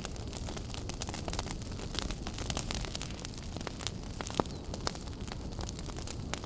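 Wood fire burning in a fireplace: a steady low rumble and hiss with dense, irregular crackles and pops, one sharper snap about four and a half seconds in.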